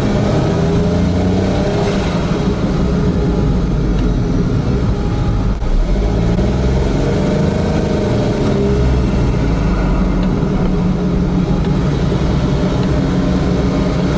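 Honda S660's turbocharged 658 cc three-cylinder engine running steadily, its note drifting up and down a little, with one sharp click about five and a half seconds in.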